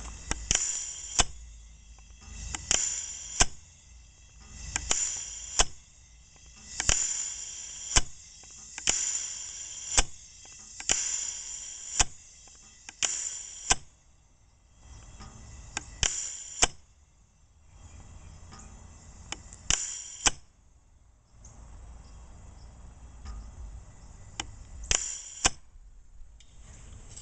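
Vintage Zon propane bird cannon cycling without its sparker, so it does not fire: each cycle releases a hiss of propane with a sharp click from the valve, about every two seconds at first, then at longer intervals after about 14 seconds in.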